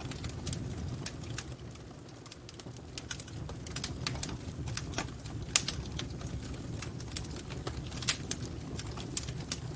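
Wood fire crackling in a fireplace: irregular sharp pops and snaps over a steady low rumble of the flames, with the loudest pop about five and a half seconds in.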